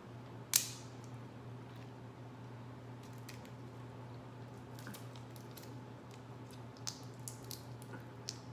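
Boiled seafood being shelled and eaten by hand: one sharp crack of shell about half a second in, then scattered small clicks and wet squishing sounds of peeling and chewing, over a steady low hum.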